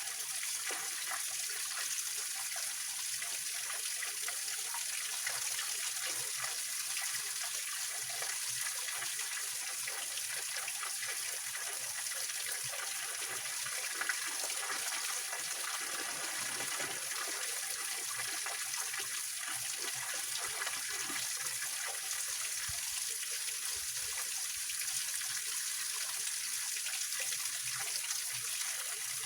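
Small mountain stream splashing and trickling over rocks at a little waterfall: a steady, hissy wash of falling water.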